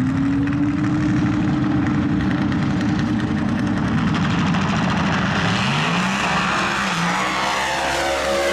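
Drag race car engine running at high revs. Its pitch climbs at the start and holds, then dips and climbs again about five and a half seconds in.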